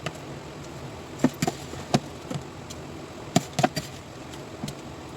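A metal utensil knocking against a cooking pot several times in quick, uneven succession, over a steady low hum.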